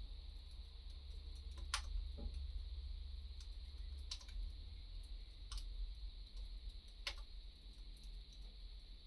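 Wood fire crackling over a steady low rumble, with faint scattered ticks and four sharper pops spaced about two seconds apart.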